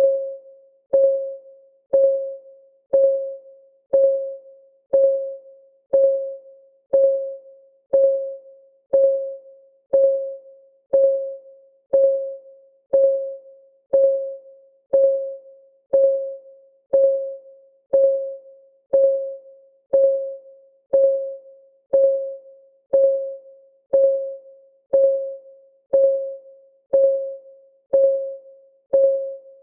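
Clock-ticking sound of a countdown timer: a steady tick once a second, about thirty in all. Each tick is a sharp click carrying a short mid-pitched ring that dies away before the next.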